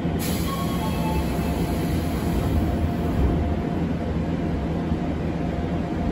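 Cabin sound of an Odakyu 8000 series commuter train starting to move out of a station: a steady low rumble with faint steady motor tones, and a brief hiss just after the start.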